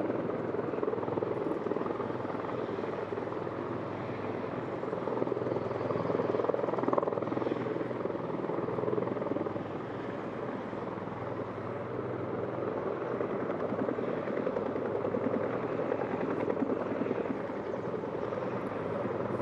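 Steady rotor and engine noise of Marine Corps aircraft running in a landing zone: a V-22 Osprey tiltrotor on the ground with its rotors turning, along with escorting attack helicopters, a continuous fluttering chop with a low hum underneath.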